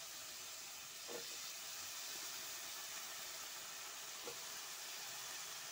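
Diced potatoes sizzling in hot oil in a wok, a steady hiss, with the spoon knocking faintly against the pan twice as they are stirred.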